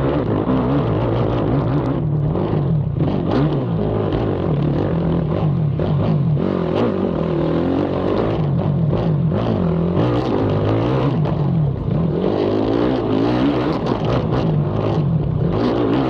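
Racing ATV's engine heard onboard, revving up and down over and over as the quad is ridden hard around a cross-country track, with frequent short knocks over the engine.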